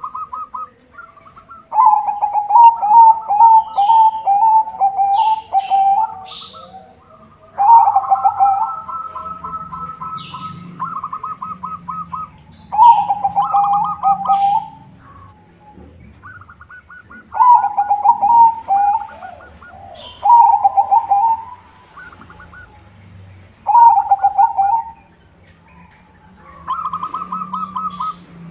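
White zebra dove (perkutut) cooing its rhythmic song of rapid pulsed notes, in repeated phrases a few seconds apart. Short high chirps are scattered among the phrases.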